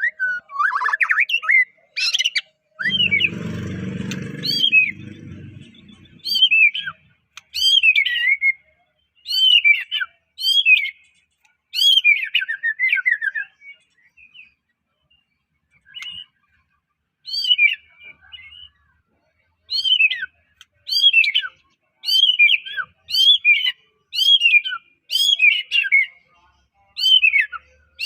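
White-rumped shama (Medan-type murai batu) singing: repeated short phrases of loud, clear whistled notes, many sweeping down in pitch, with short pauses between phrases. A low noise lasts about two seconds near the start.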